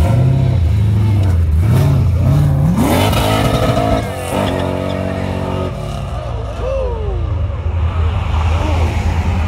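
Volvo 240 wagon's engine pulling away under hard acceleration. The revs climb steeply about three seconds in, break briefly near four seconds for a gear change, climb again, and then fade as the car drives off.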